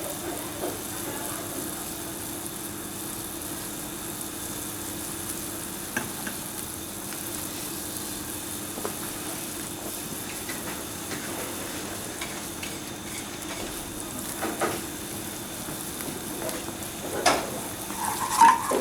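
A pan sizzling steadily on the stove as stock boils down to a reduction, over a steady low hum. A few light knocks of a utensil against the pan, then louder clatter near the end.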